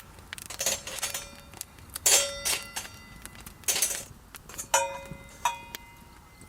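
Metal cookware clanking: about seven scraping strikes, several ringing briefly like a metal utensil hitting an iron frying pan, over the small crackles of a campfire.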